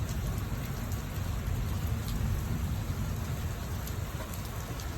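Approaching thunderstorm: a steady rushing noise of rain and wind, with an uneven low rumble of distant thunder underneath.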